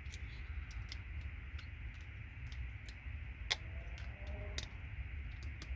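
Side cutters snipping the metal pins off an RJ45 patch panel: a run of irregular sharp clicks, with louder snaps about three and a half and four and a half seconds in, over a steady low hum.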